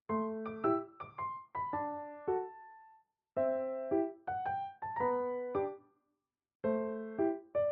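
Background music: a gentle piano melody in short phrases of struck notes, with brief full pauses between the phrases.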